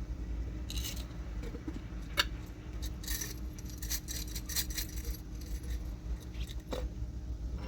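Light clinking and jingling of small hard objects knocking together, in quick clusters about a second in and again between three and five seconds, with one sharper knock just after two seconds.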